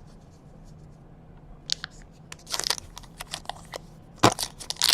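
Crinkling and crackling of trading-card pack wrappers being torn open and handled: a run of short sharp crackles starting about two seconds in and loudest near the end.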